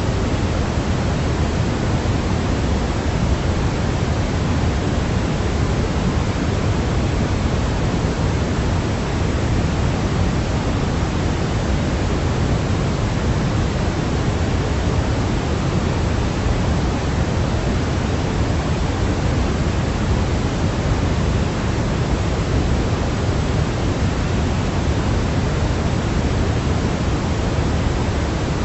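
Baby-sleep white noise: a steady, unbroken hiss, heavier in the low end like pink noise, with no change in level or character.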